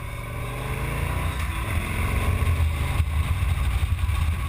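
Motorcycle engine running under way on a mountain road, a steady low rumble that grows louder about a second in.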